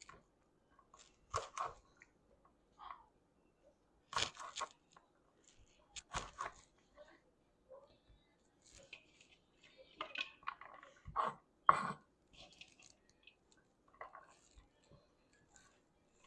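Kitchen food-preparation handling sounds: scattered short crunches and tearing rustles, with a sharper knock about twelve seconds in.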